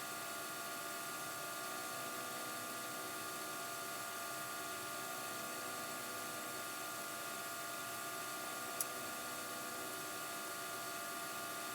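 Steady hiss of room tone with faint steady electrical whine tones, and one faint click near the nine-second mark.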